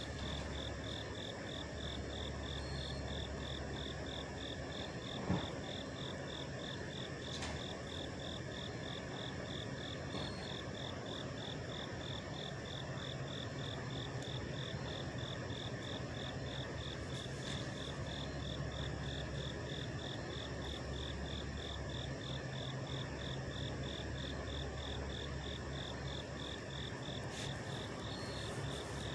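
Several trucks idling, a steady low drone, with a high-pitched chirp repeating in a quick, even rhythm.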